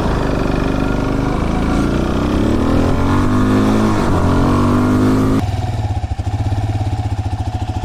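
Motor vehicle engine running loudly, with gliding pitch lines crossing as a vehicle goes by about four seconds in. About five seconds in the sound changes abruptly to a steady, pulsing engine note.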